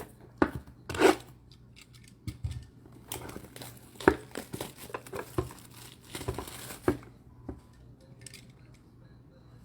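Trading-card packaging being handled: crinkling and tearing with sharp clicks in irregular spurts, the busiest bursts about a second in and in the middle of the stretch, over a faint steady hum.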